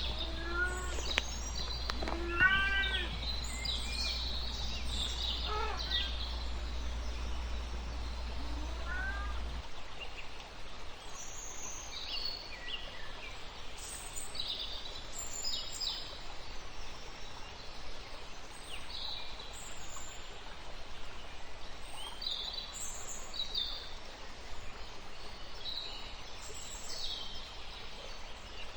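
Kitten meowing four times over a low hum. About ten seconds in, the hum cuts off and small birds chirp repeatedly over steady background noise.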